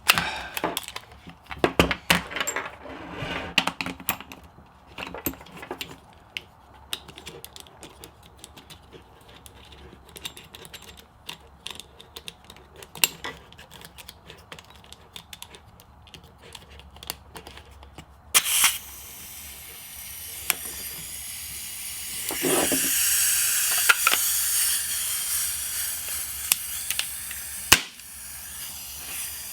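Clicks and small knocks of an air pistol and its parts being handled. Then, about two-thirds through, a steady hiss of gas escaping as the gas air pistol is charged. The hiss swells louder for a few seconds, and the owner takes it for a leak at the pistol's valve.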